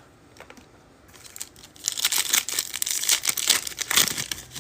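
A foil trading-card pack wrapper being torn open and crinkled by hand, starting about a second and a half in.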